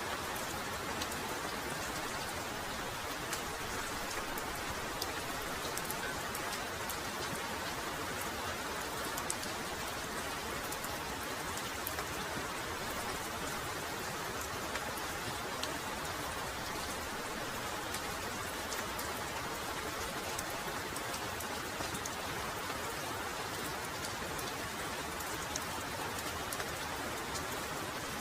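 Heavy rain falling steadily, an even hiss of rain with many sharp individual drop ticks scattered through it.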